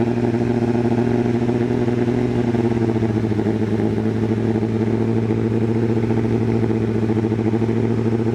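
A 32-year-old car engine idling steadily with a fast, even pulse while it is being fed Seafoam engine treatment.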